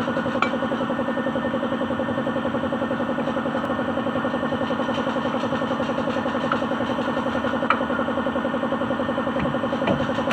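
Suzuki DA16 mini truck's engine running at a steady speed during a test drive after a transmission overhaul, an even drone with a fast regular pulse.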